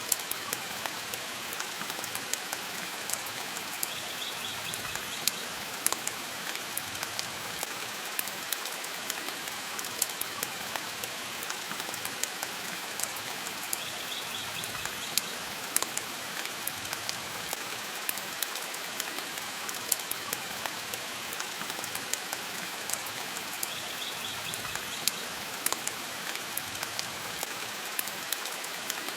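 Steady rain with frequent sharp crackles and pops from a wood fire in a fireplace. A faint, brief high chirp comes about every ten seconds.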